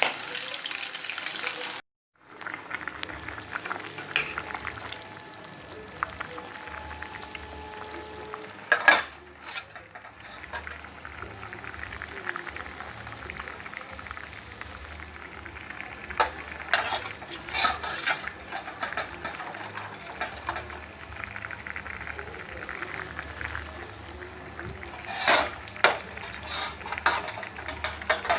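Food frying in hot oil in a pan, a steady sizzle, with a cooking utensil scraping and clattering against the pan in short spells as it is stirred.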